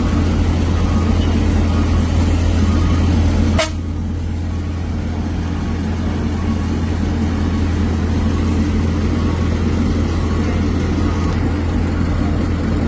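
Heavy vehicle's diesel engine idling with a steady low hum. About a third of the way in there is a sharp click, and the sound drops abruptly to a slightly lower level, then runs on steadily.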